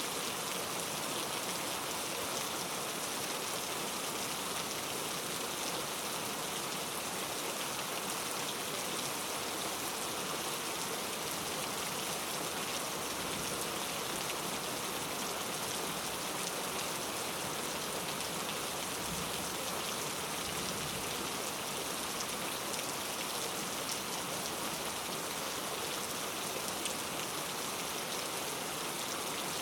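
Steady rain falling, an even hiss with a patter of fine drops that does not let up.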